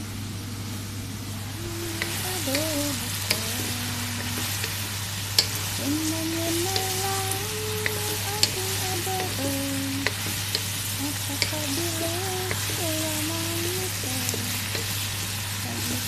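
Chicken pieces sizzling as they stir-fry in a wok, with the wooden spatula clicking and scraping against the pan now and then. The sizzle grows louder about two seconds in.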